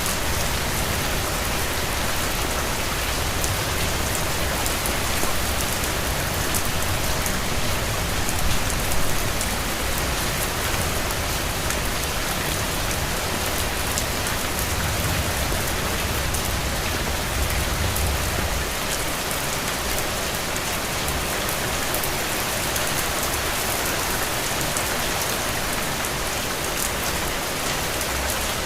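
Steady rain falling, a dense hiss with fine drop ticks. A low rumble underlies it for the first two-thirds and fades out about nineteen seconds in.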